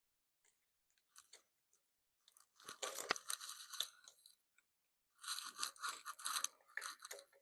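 Crackling, rustling handling noise in two bursts of a couple of seconds each, with small clicks: hands working small motorcycle parts.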